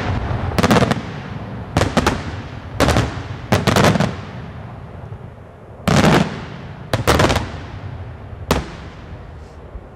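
Daytime aerial firework shells bursting overhead: a dozen or so loud bangs in clusters of two or three, each trailing off in a fading echo. The last single bang comes about a second and a half before the end.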